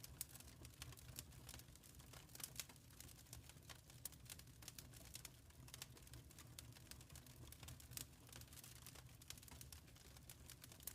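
Wood fire crackling in a fireplace: faint, irregular quick pops and snaps over a low steady rumble of the burning fire.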